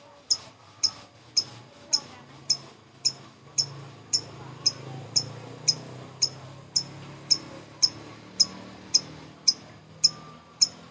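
Female lovebird giving short, sharp, high chirps in an even run of about two a second: the clicking 'ngetik' call.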